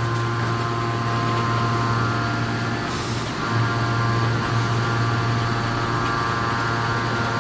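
Ring forging press running with a steady machine hum, and a short hiss about three seconds in.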